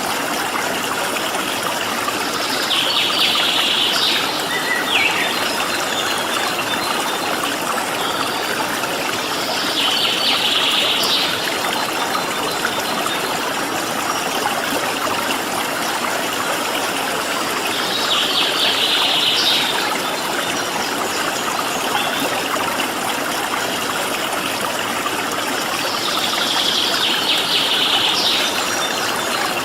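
Steady rush of a flowing stream. A bird gives a short, high trill four times, about every eight seconds.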